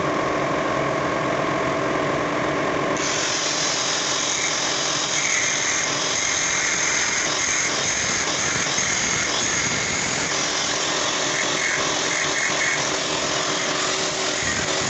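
An electric power tool running steadily under load, with a high whine that grows stronger about three seconds in.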